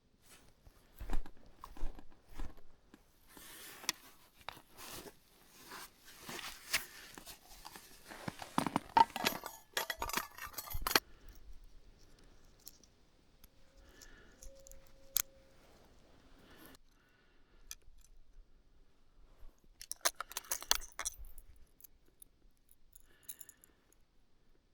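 Irregular clicking, rustling and crunching of small things being handled, busiest in the first half and again in a short spell near the end.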